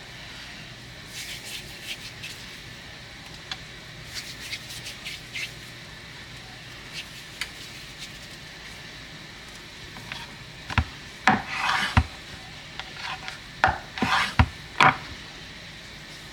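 Kitchen utensils being handled: light scraping and rubbing, then several sharp knocks and short scrapes in the second half.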